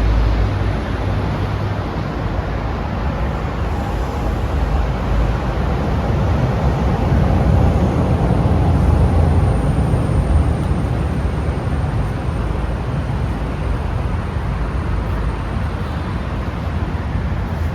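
Steady low rumble of vehicle noise, swelling slightly around the middle and easing off again.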